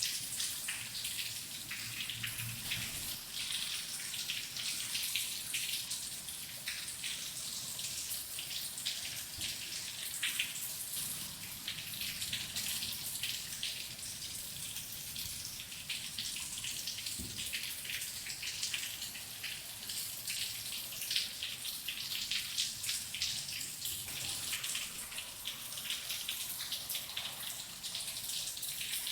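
Steady rain falling, a dense, continuous patter of many individual drops.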